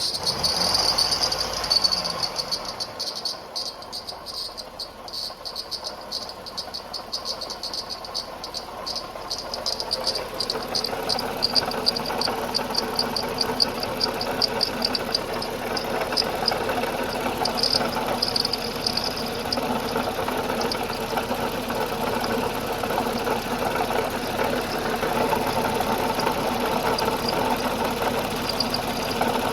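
Toyota Highlander engine running with a high-pitched, rapidly pulsing whistle, which the owner attributes to a leaking water pump. The whistle fades out about two-thirds of the way through while the engine sound grows louder.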